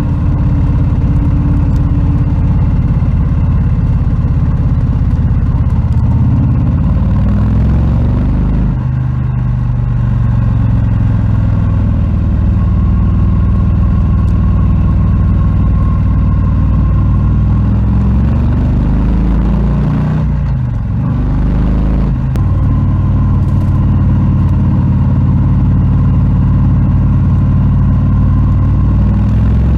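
Harley-Davidson Low Rider S (FXLRS) with its Milwaukee-Eight 117 V-twin running loud. The engine note holds steady for long stretches, drops and climbs again about eight seconds in, then falls off and picks up again around twenty seconds in.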